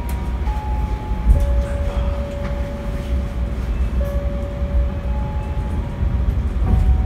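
A train running with a heavy, steady low rumble. Thin, steady whining tones sound over it, changing pitch every second or two.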